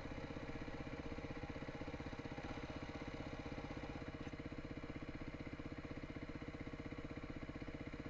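Beta 350 enduro motorcycle's single-cylinder four-stroke engine idling steadily, with an even pulse.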